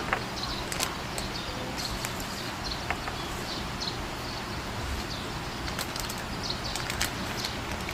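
Small bird chirping: short high chirps repeated at irregular intervals over a steady hiss, with a few sharp clicks.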